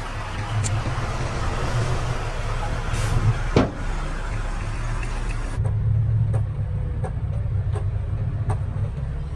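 Heavy diesel engine running steadily at a low pitch, with a sharp click a few seconds in. About halfway through the sound changes abruptly, and a regular ticking about twice a second runs on over the engine.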